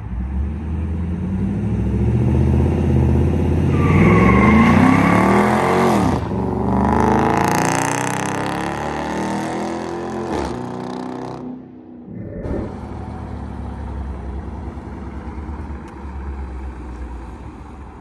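Dodge Charger Hemi V8 accelerating hard. The engine note rises through a gear, drops at a shift about six seconds in, and rises again. About ten seconds in the driver lets off and the engine settles to a steady low run.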